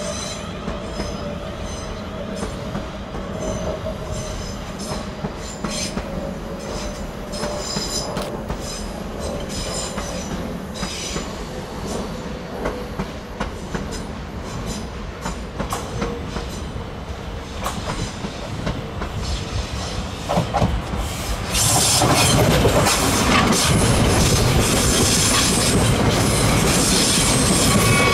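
Rail noise from trains on the tracks: at first a faint steady whine and scattered clicks from distant trains. After about twenty seconds the sound jumps sharply louder as a South Western Railway Class 458 electric multiple unit runs close by, its wheels clattering on the rails.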